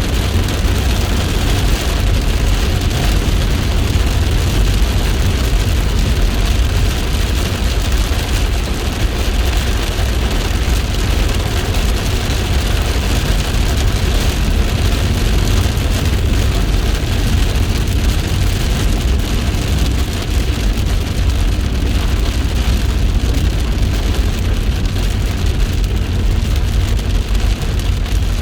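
Heavy rain pouring steadily, a constant hiss with a deep rumble underneath.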